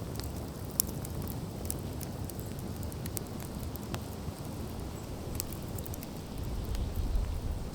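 Wood campfire burning down, with a steady low rush and scattered sharp crackles and pops. A low rumble builds near the end.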